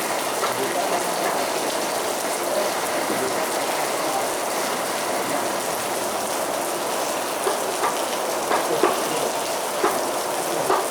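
Heavy rain falling steadily, with louder single drops striking a surface now and then, more often in the second half.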